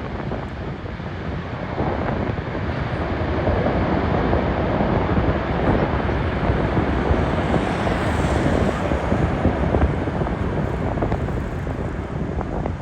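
Aircraft passing close by: a deep, noisy rumble swells from about two seconds in, holds loud through the middle and eases off near the end, with wind buffeting the microphone.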